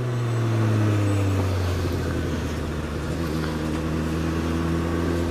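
Suzuki GSX-S1000's inline-four engine, heard from onboard. Its revs fall over the first couple of seconds as the bike slows on the overrun, then it runs low and steady.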